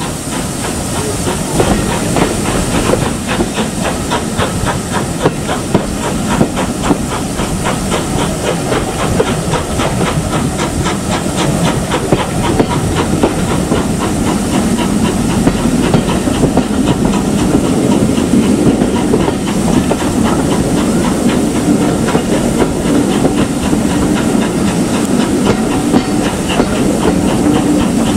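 Steam locomotive running with a train: a steady hiss of steam over a fast, even rhythmic clatter, growing gradually louder.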